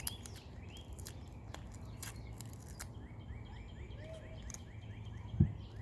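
Small birds chirping repeatedly in the background, with scattered light clicks over a steady low hum, and a single low thump near the end.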